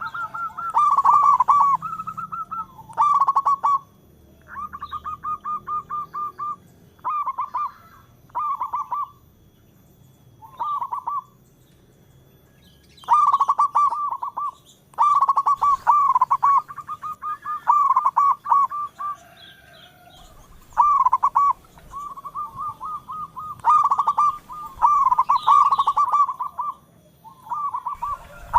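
Local-strain zebra dove (perkutut) cooing: repeated phrases of rapid, trilling coo notes, each a second or two long, with short pauses between them and a longer gap about a third of the way in.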